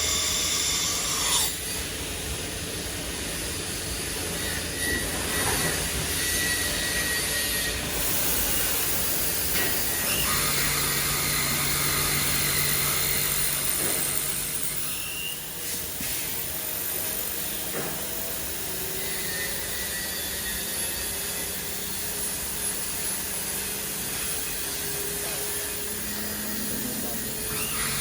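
CNC machining centre running as it machines a steel H-beam: steady machine noise with a hiss, and whining tones that come and go.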